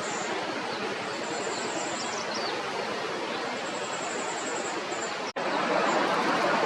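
Steady rushing water, with a goldcrest's very high, thin song of rapid notes heard faintly twice, about a second in and again around four seconds. Just past five seconds the sound cuts out for an instant and the water comes back louder.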